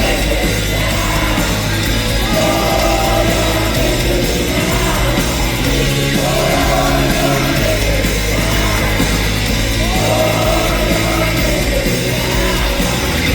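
A live rock band playing the song at full, steady volume, with bass and drums underneath a wavering melody line.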